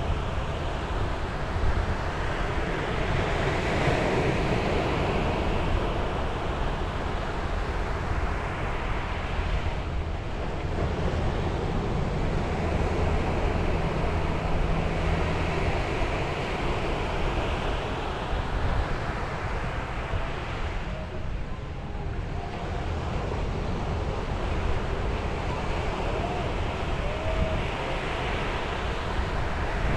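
Sea waves breaking and washing up a beach, the surf swelling and easing every ten seconds or so, with wind rumbling on the microphone.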